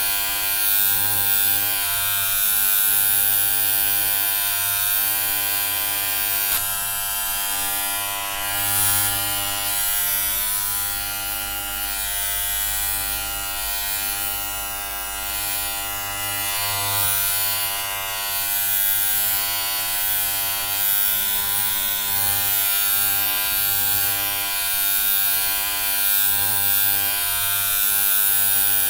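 Electric hair clippers buzzing steadily, a dense hum with a hiss above it that wavers only slightly in loudness.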